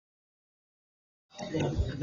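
Dead silence for the first two-thirds, then a voice and room sound start abruptly.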